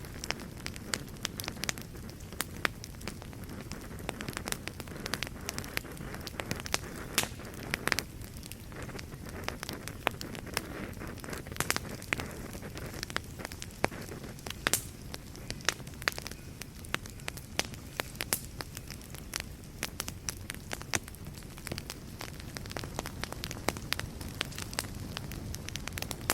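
Wood fire in a fireplace burning steadily, with a low rumble of flame and frequent irregular crackles and sharper pops.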